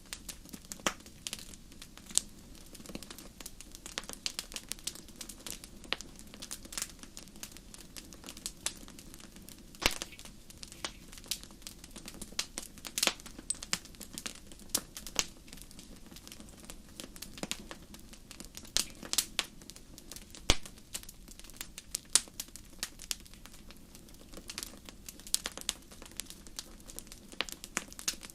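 Wood fire crackling in a fireplace: irregular sharp pops and snaps, a few louder ones, over a low steady hiss.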